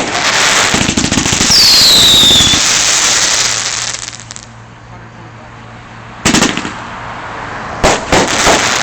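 Multi-shot firework cake firing: dense loud crackling for about four seconds with a falling whistle, then quieter, then sharp bangs about six seconds in and again near eight seconds.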